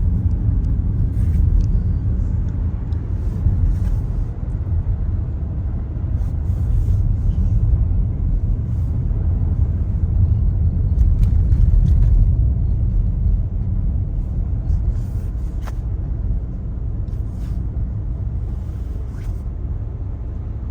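Steady low rumble of road and engine noise inside a moving car's cabin, with a few faint clicks and knocks.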